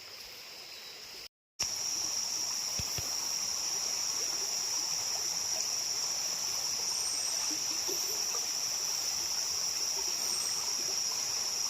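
Steady high-pitched insect drone over an even background hiss, broken by a brief cut to silence about a second in.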